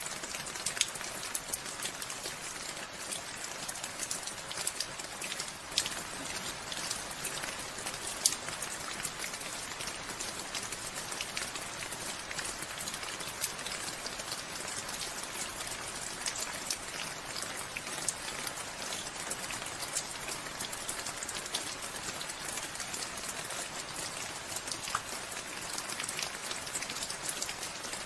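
Steady rain with many separate drops pattering sharply on a surface.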